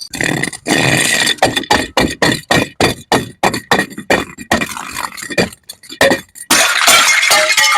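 Glass bottles clinking and smashing against each other in a rapid run of sharp, ringing knocks, about three or four a second, with a denser crash of breaking glass near the end.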